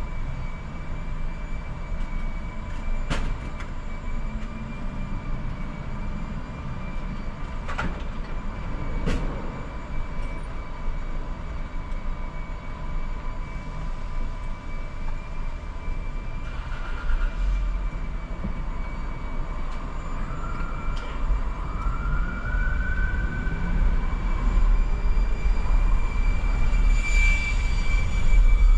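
Car driving on city streets: steady road and engine rumble with a constant high whine. There are a few sharp clicks in the first ten seconds, and in the second half a whine rises in pitch again and again as the rumble grows louder.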